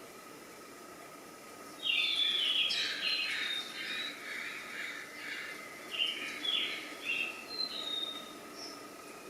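Birds chirping, a quick run of short falling notes that starts about two seconds in and thins out toward the end.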